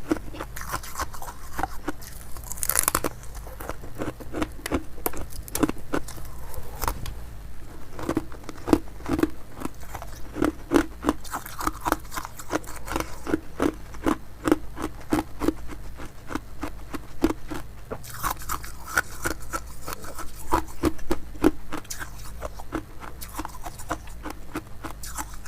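Ice being bitten and chewed close to the microphone: a sharp crack about three seconds in, then steady crunching chews at roughly two a second.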